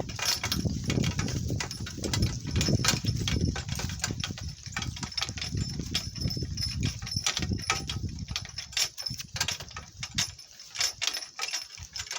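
Donkey cart rolling over rough, bumpy ground: a low rumble with many rattles and knocks, the rumble easing about eight seconds in while the rattling goes on.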